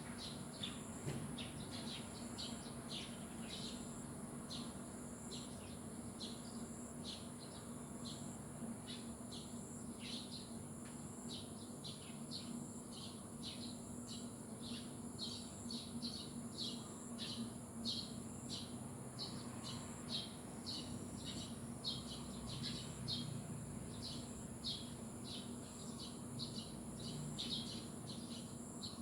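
Small birds chirping: short high chirps repeating about twice a second without a break, over a steady high-pitched hiss and a faint low hum.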